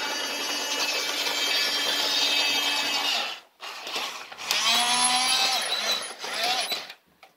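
Small electric motor of a battery-powered toy train locomotive running with its wheels spinning freely, a steady whir that cuts off about three seconds in. A shorter sound whose pitch rises and falls follows.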